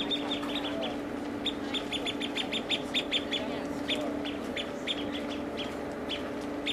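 Small birds chirping in quick runs of short, high calls that thin out near the end, over a steady low hum.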